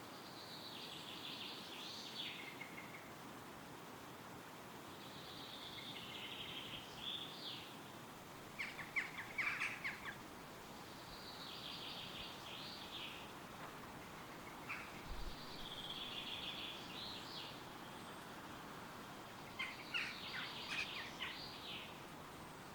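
Wild songbirds singing in woodland over a steady hiss of wind in the trees. One bird repeats a song phrase of about two seconds roughly every five seconds, and louder chattering calls break in twice.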